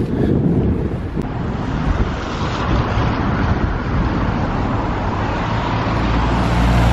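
Storm-force gusts of wind buffeting the microphone, with traffic noise from a vehicle on the road swelling through the second half.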